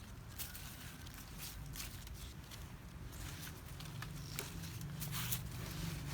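Light rustling and crackling of garden plant leaves and stems being pushed through and handled, with footsteps, over a steady low rumble.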